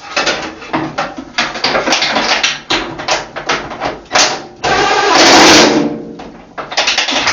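Impact wrench set to slow speed, hammering in short bursts with one longer, loudest run about five seconds in, as it drives home the bolts of a washing machine's rear shock absorbers.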